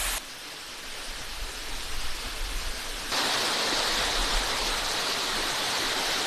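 Steady rushing water noise, dropping quieter just after the start and stepping up louder and brighter about three seconds in.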